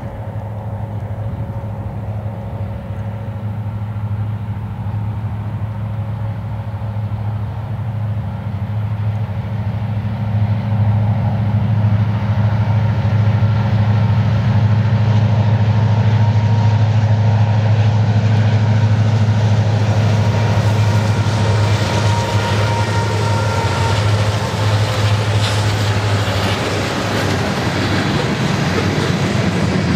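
Four Union Pacific EMD SD70ACe diesel locomotives hauling a manifest freight train: a steady low engine drone that grows louder as they approach and pass, loudest around the middle. The freight cars then roll by, with wheels rumbling and clicking over the rail joints.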